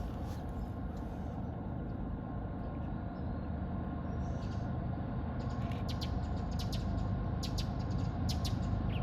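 Freight train cars rolling past with a steady low rumble of wheels on rail. Short, high bird chirps come in over it in the second half.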